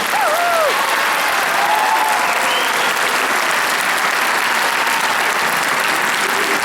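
Audience applauding steadily as a choir's song ends, with a few voices calling out over the clapping in the first two seconds.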